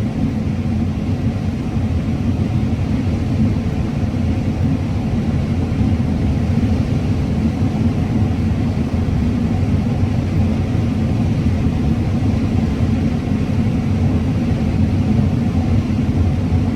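Combine harvester running steadily under load while cutting corn: an even, low rumble with no change in pace.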